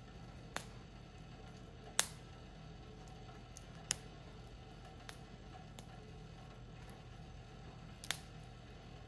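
Firewood fire crackling: about five sharp pops at irregular intervals over a low steady background, the loudest about two seconds in.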